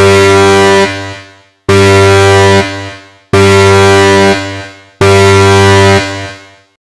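Four identical loud, deep synthesized horn blasts, evenly spaced about a second and a half apart, each held for just under a second and then fading out.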